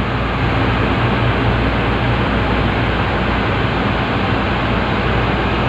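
Steady machine running, a constant low hum under an even hiss, with no clear change.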